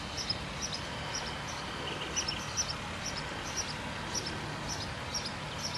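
A bird chirping repeatedly, with short high chirps about twice a second, over a steady outdoor background hiss.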